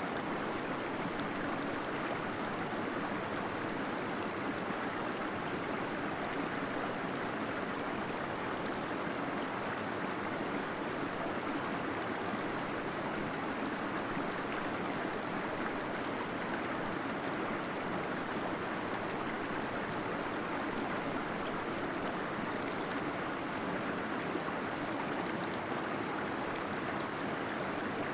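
Small waterfall inside a cave, water falling and gurgling in an even, unbroken rush.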